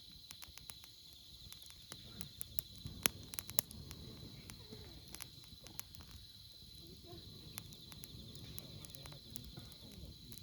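Wood campfire crackling, with irregular sharp pops, the loudest a few seconds in. A steady high insect trill runs underneath.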